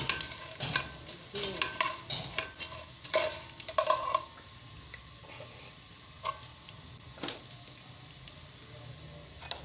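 Edible gum (gond) frying in desi ghee in a metal pot, with a metal spatula scraping and clinking against the pot through roughly the first four seconds. After that there is a steady faint sizzle with a few single clicks.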